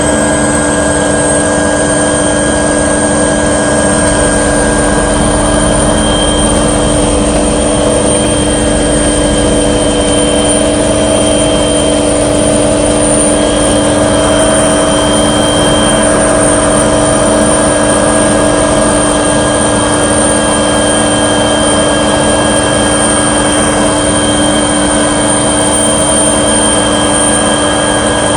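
Loud, steady drone of a light aircraft's engine and rotor or propeller, heard from on board, holding the same pitch throughout.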